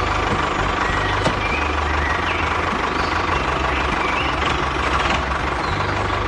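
A heavy vehicle engine running steadily with a low hum, and a few short high chirps over it.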